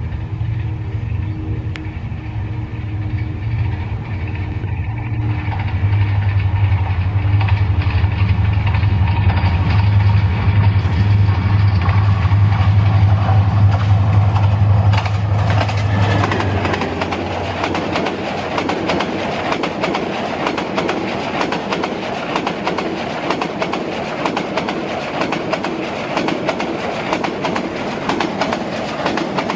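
Diesel-electric locomotive engine droning, growing louder as it approaches and passes about halfway through. Its passenger coaches then roll past close by with a steady clickety-clack of wheels over the rail joints.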